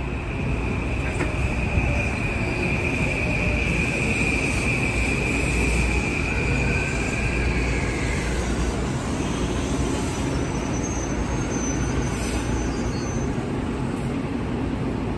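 Amtrak passenger cars rolling past close by, a steady low rumble of wheels on rail with a high, steady wheel squeal that drops in pitch and fades out about eight seconds in.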